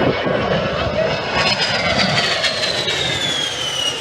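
An A-10 Thunderbolt II's twin TF34 turbofan engines passing overhead. A high engine whine over jet rumble drops steadily in pitch from about the middle on as the aircraft goes by.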